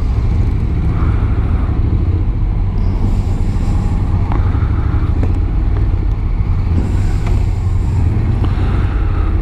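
Honda NC750X motorcycle's parallel-twin engine running at low speed, a steady low rumble as the bike creeps in to park.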